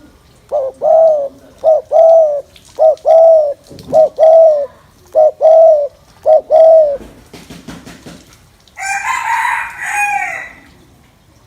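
Spotted dove cooing: six two-part coos, each a short note then a longer one, in a steady run about a second apart. A few seconds after the last coo a harsher, broader call sounds for about a second and a half.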